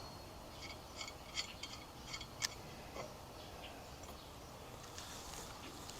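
Faint, scattered small metal clicks and taps of hardware being handled as a nut is fitted onto the bolt of a bike-rack mount.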